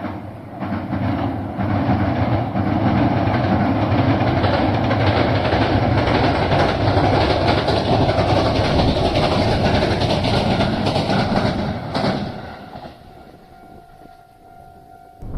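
Train on the JR Sanyo Line passing close by, wheels clattering over the rails for about twelve seconds before the sound falls away suddenly as the end of the train goes by.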